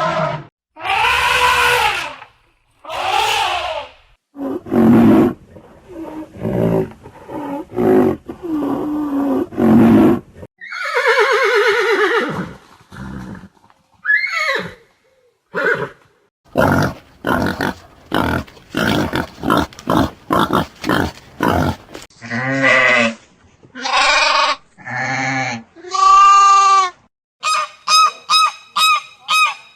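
A string of different animals' calls, one after another, some long and some short. It ends in a fast run of short repeated calls, about four a second.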